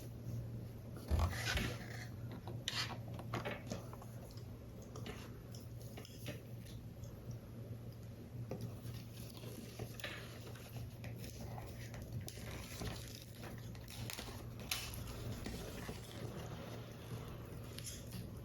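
Paper model parts being handled and assembled: scattered paper crinkles, taps and small clicks, with a louder knock about a second in, over a steady low hum.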